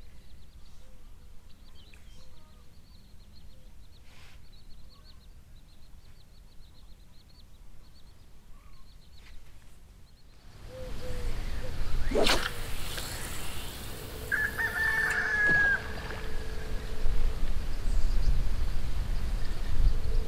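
Birds calling: faint chirps and trills at first, then a louder low rumble with a single sharp click about twelve seconds in and a held call that drops in pitch at its end.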